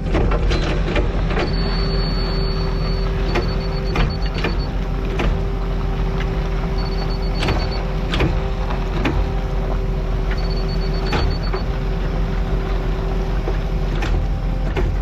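Diesel engine of a compact earthmoving machine running steadily at work, with a constant low rumble and hum. Scattered clanks and knocks from the machine come through it.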